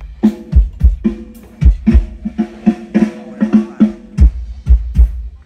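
Drum kit played loud during a soundcheck: kick drum thumps with snare and tom hits and cymbal crashes in a steady groove.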